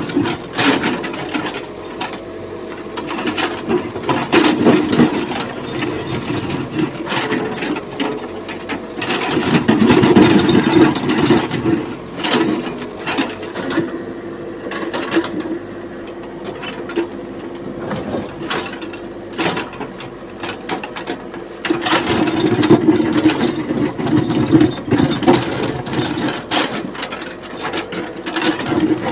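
JCB backhoe loader's diesel engine running under working load, with repeated scraping, clanking and knocking from its bucket breaking up and scraping off an old road surface. The engine and scraping grow louder in several spells of heavier digging.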